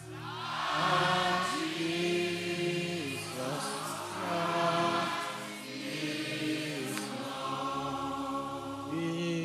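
Slow sung worship chorus, voices holding long notes that step from one pitch to the next.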